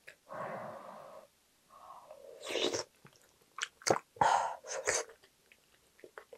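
Close-miked eating sounds: a spoonful of soybean-paste stew with tofu taken in with a slurp, then wet chewing with sharp mouth clicks and smacks a few seconds in.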